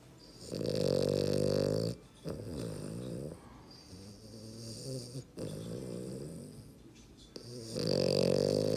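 French bulldog snoring in its sleep: two loud, drawn-out snores, one about half a second in and one near the end, with softer snoring breaths between them.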